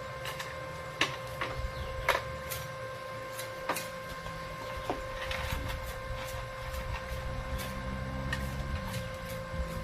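Arc welding: a steady electrical buzz with scattered sharp cracks and clicks.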